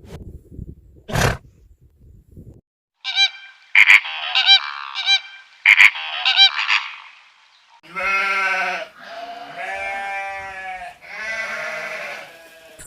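Animal calls: a quick series of short, high-pitched calls, then three long calls one after another.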